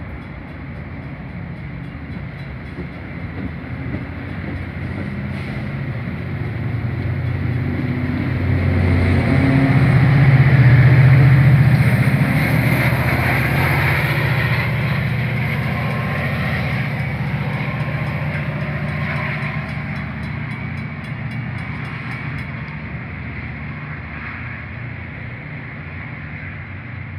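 Metra commuter train departing, its diesel locomotive's engine drone swelling loud as the locomotive goes past about ten seconds in, then fading steadily as the train pulls away.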